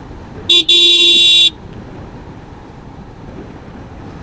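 Vehicle horn honked twice, a quick tap and then a held honk of about a second, over the steady wind and road noise of a motorcycle ride.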